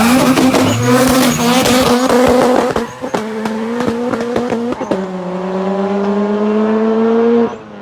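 Car engine at high revs under hard acceleration, with a rapid crackle over it. About five seconds in the pitch drops as it shifts up, then climbs again, until the sound cuts off suddenly near the end.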